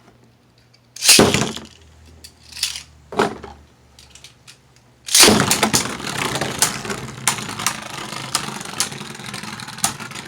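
A few sharp plastic clacks, then about five seconds in Guardian Kerbeaus and Blizzard Gainon Beyblade Burst tops land in a plastic stadium and spin, a steady scraping rattle with repeated sharp clicks as the tops strike each other.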